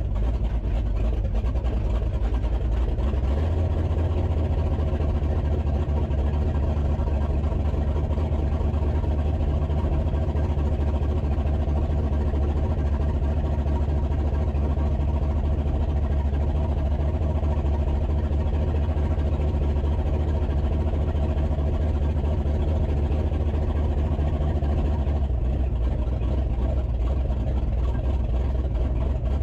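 A vehicle's engine and road noise while driving: a steady low drone that fills out a few seconds in and eases slightly near the end.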